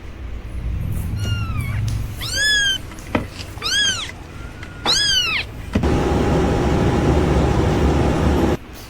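Kitten meowing four times in short, high-pitched cries, each rising then falling in pitch. About six seconds in, a loud steady hiss with a faint hum starts, then cuts off suddenly near the end.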